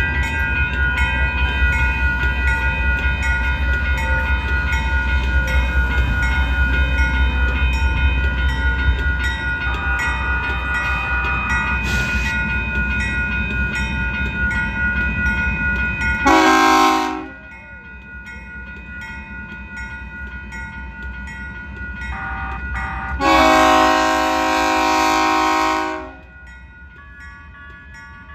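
Grade-crossing warning bells ringing steadily over the low rumble of a Union Pacific diesel freight locomotive rolling slowly through the crossing. A train horn sounds a short blast about 16 seconds in and a longer blast of nearly three seconds about 23 seconds in.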